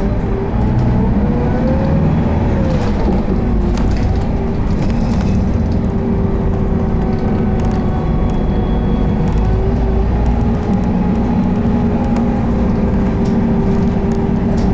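Isuzu Erga city bus heard from inside the cabin while under way: the diesel engine running steadily over a low road rumble, its pitch rising and falling once about two seconds in, then holding steady.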